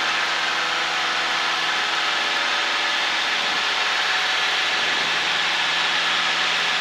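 Cessna 152's four-cylinder Lycoming engine and propeller running steadily at full power, heard from inside the cockpit, as the aircraft accelerates out of slow flight.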